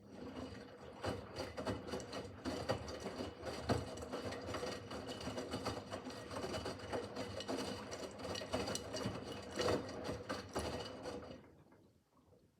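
Miele W5801 WPS washing machine's drum turning during an easy-care 30 °C wash, the motor running with a steady whir and many clicks and knocks. It starts at the outset and stops about a second before the end, a rotation phase between pauses.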